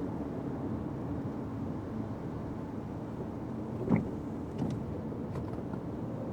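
Fiat 500X car driving, with steady engine and road noise. A single short thump about four seconds in, followed by a couple of faint ticks.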